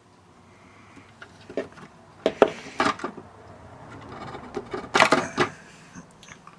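Scattered clicks, knocks and rattles of small hard parts being handled as the radio is taken apart, loudest about two and a half seconds in and again about five seconds in.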